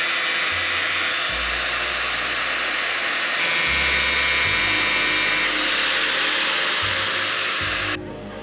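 Hand-held power tool running steadily with a high-pitched noise, shifting character abruptly a few times and dropping away about eight seconds in, over background music with a bass line.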